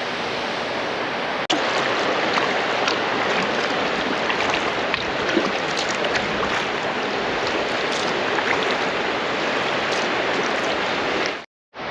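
Water pouring over the edge of a lake spillway: a steady rushing that stops briefly near the end.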